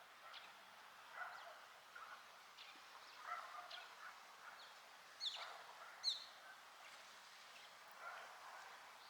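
Faint, scattered bird chirps and calls, with two louder calls sweeping quickly downward in pitch about four and five seconds in.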